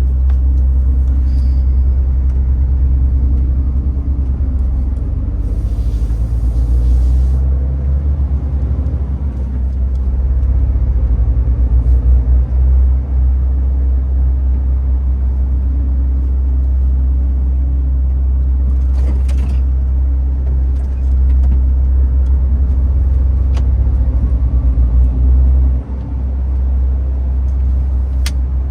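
MAN TGX 18.510 truck's straight-six diesel running under way, a steady low drone. A short hiss of air cuts in about six seconds in and again about nineteen seconds in.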